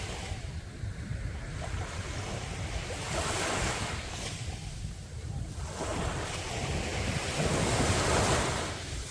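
Sea waves breaking on a beach, with two surges of surf, one about three seconds in and a longer one from about six seconds in. Wind rumbles on the microphone underneath.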